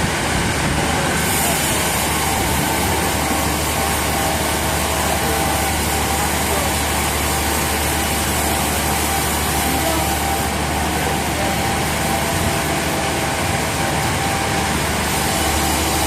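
Sawmill machinery running steadily: a constant engine hum under a noisy whir, with a higher hiss that strengthens about a second in and eases off about two-thirds of the way through.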